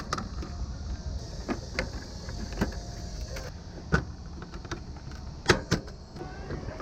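Suzuki GSX-R1000 K7 inline-four motorcycle engine running at low revs, a steady low rumble with no rising or falling revs, broken by several sharp clicks and knocks.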